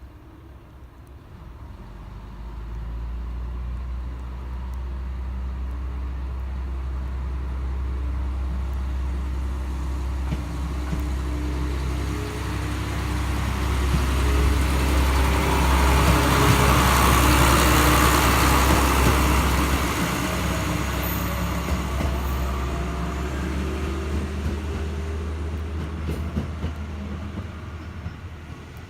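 A train going by, its running noise building over the first few seconds, loudest a little past halfway, then slowly fading.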